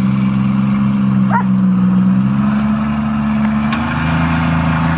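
Old Ford diesel truck being tow-started, its engine turning over and running steadily with a low hum; a short high chirp about a second in.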